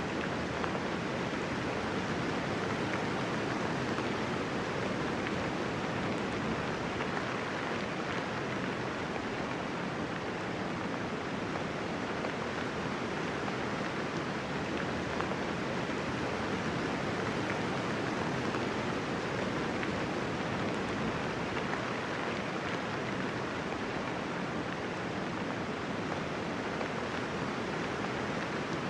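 Steady, even hiss of soft rain falling, with no thunder.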